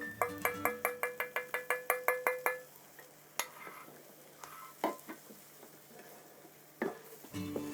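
Metal spatulas striking a hot plate in quick chopping strokes: a fast run of about five ringing metal clinks a second for the first two and a half seconds, then a few scattered clinks and scrapes.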